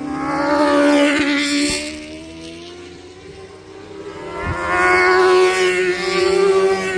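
Racing motorcycles at high revs passing on a circuit: one loud pass about a second in that fades away, then another rising to a loud pass about five seconds in.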